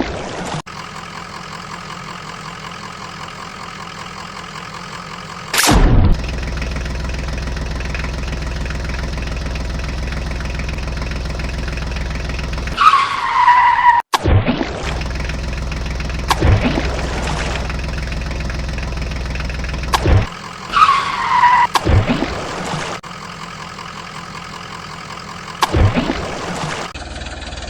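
Engine running steadily, with abrupt jumps in level and short loud bursts several times, and a falling whine twice.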